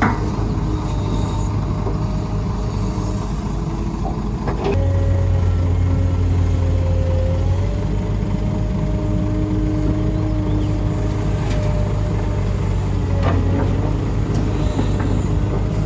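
Diesel engine of heavy construction machinery running steadily, pulling harder for a few seconds about five seconds in. There are a couple of sharp knocks, one just before that and one near the end.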